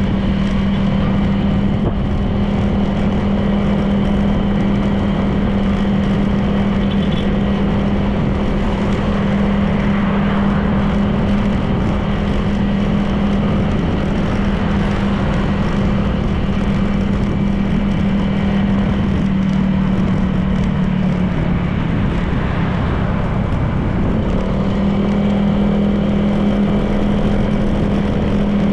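Honda PCX 160 scooter's single-cylinder engine running at a steady cruise, with wind and road noise. The engine note drops away a little past two-thirds through, then comes back about three seconds later.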